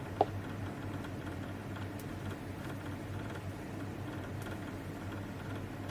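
Quiet background room tone: a steady low hum with faint hiss, broken only by a couple of faint clicks.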